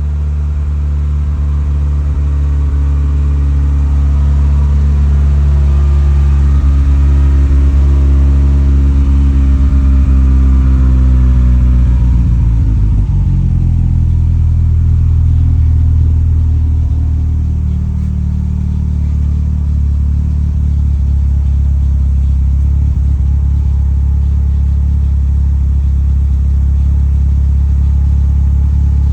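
1989 BMW E30 M3's S14 four-cylinder engine idling after a cold start. Its idle speed drifts down about halfway through, then holds steady.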